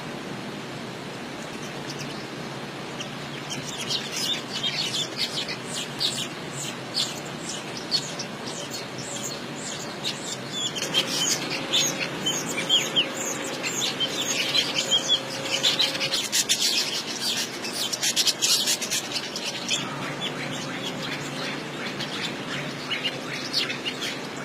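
Many small birds chirping over a steady hiss, with the calls starting a few seconds in, thickest in the middle and thinning out near the end.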